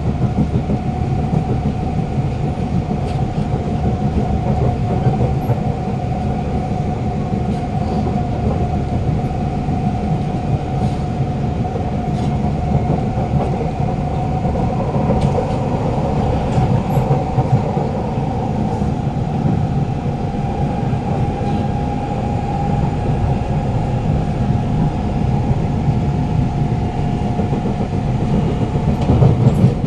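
Inside a Siemens C651 train car running at speed: a loud traction motor whine holds steady over the rumble of the wheels on the rails, with a second, slightly higher whine joining about halfway through.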